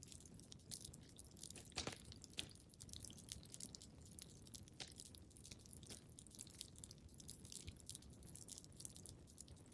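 Wood fire crackling in a fireplace: frequent irregular snaps and pops over a soft low rumble, the sharpest pops about two seconds in.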